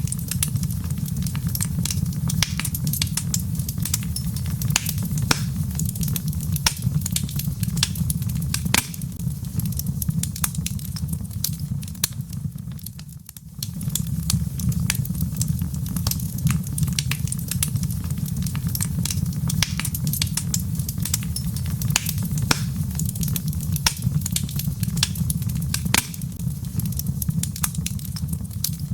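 Wood fire in a fireplace crackling and popping: many sharp, irregular snaps over a steady low rumble. The fire briefly goes quieter about halfway through.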